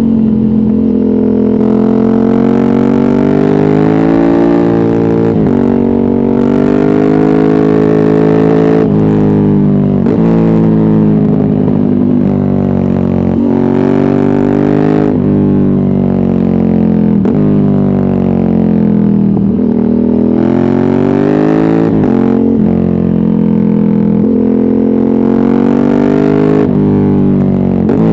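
Ducati Hypermotard 796's air-cooled L-twin, loud through a de-catted Termignoni exhaust with no dB killer, revving hard while being ridden. The pitch climbs and falls with sharp breaks at each gear change, a dozen or so times.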